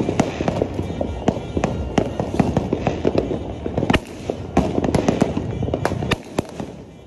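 Many fireworks and firecrackers banging and crackling in quick, irregular succession, easing off about six seconds in.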